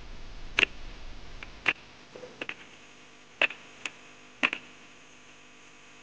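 Goats and sheep chewing plums and leaves: sharp, irregularly spaced crunching clicks, about eight of them, ending about two-thirds of the way in.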